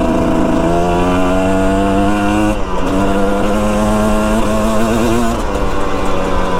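Dirt bike engine running under way, its pitch shifting in steps as the rider changes speed or gear, with a brief break about two and a half seconds in.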